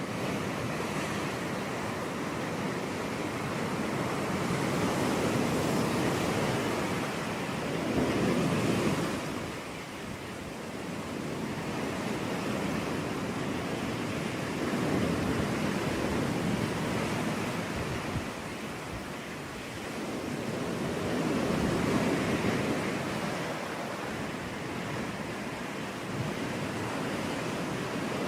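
Sea waves breaking on a beach, a steady surf noise that swells and recedes every several seconds.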